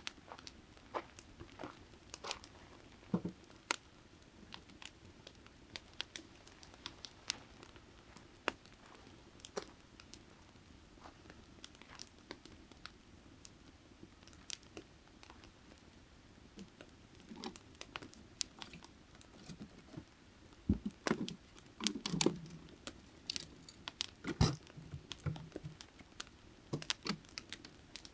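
Burning firewood crackling, with irregular sharp pops throughout and a cluster of louder pops about three quarters of the way in, over the steady low rush of a creek.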